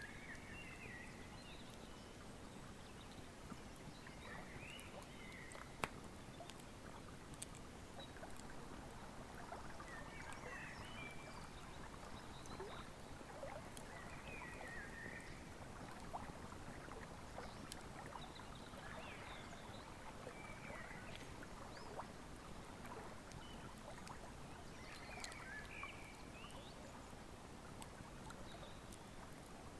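Wood fire crackling with scattered sharp pops, one louder pop about six seconds in, over the steady rush of a flowing river. A bird gives short chirping calls every few seconds.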